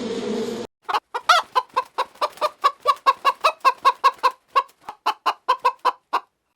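Chicken clucking in a long, even run of short calls, about four to five a second. It starts after a buzzing hum that cuts off abruptly under a second in.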